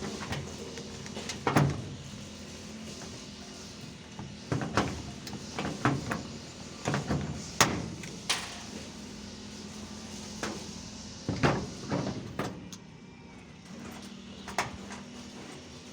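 Irregular knocks and clatters of construction work, about a dozen sharp impacts at uneven intervals, some in quick pairs, over a faint steady hum.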